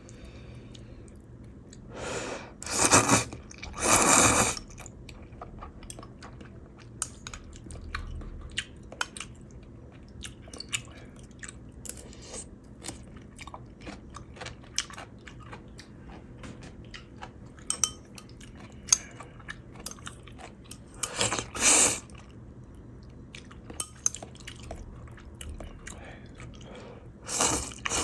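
Close-up eating sounds of a person eating Korean ramen: wet chewing with small crunches and mouth clicks. There are louder, noisier bursts twice a few seconds in, once past the middle and once at the end.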